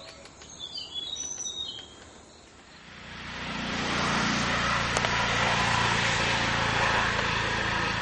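A small bird gives a quick series of high, thin chirps in the first two seconds. From about three seconds in, a loud, steady rushing noise swells up and covers the rest.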